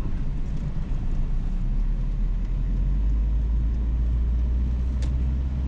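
Steady low engine and road rumble heard from inside a vehicle's cab as it drives slowly, growing heavier about halfway through, with a faint click near the end.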